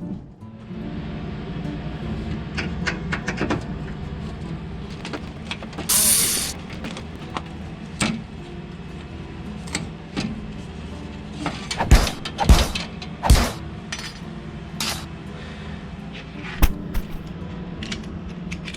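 Steady low hum under a run of metallic knocks, clicks and clatter of hands working at equipment, with a brief hiss about six seconds in and three heavy thumps about twelve to thirteen seconds in.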